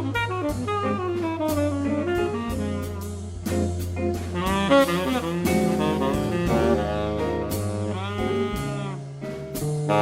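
A small jazz band plays a blues live: a saxophone carries the melody line over a bass line that moves note by note and a drum kit keeping time on the cymbals.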